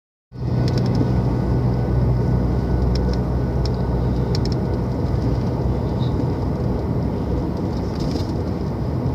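Steady engine drone and road noise from inside a moving car.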